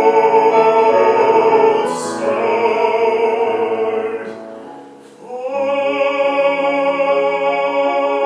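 Operatic bass singing to accompaniment, holding long notes with vibrato. The sound fades about four to five seconds in, and a new phrase starts.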